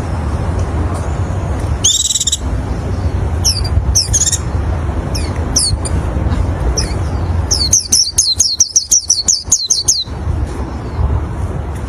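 A white-eye (pleci) singing: sharp high chirps and short sweeping notes in scattered phrases, then a fast trill of about a dozen notes about two-thirds of the way through. A steady low rumble runs underneath.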